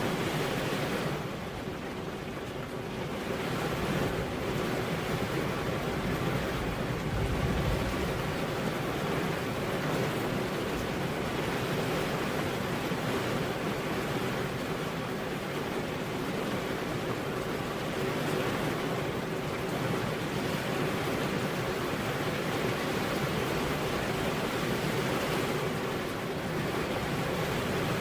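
Rain falling steadily: an even, unbroken hiss with no single drops or other events standing out.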